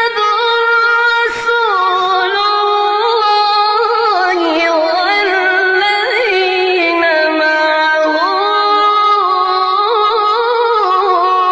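A single high voice singing unaccompanied in long held notes with ornamented melismatic turns, in the style of Islamic chanting, with only brief breaths between phrases.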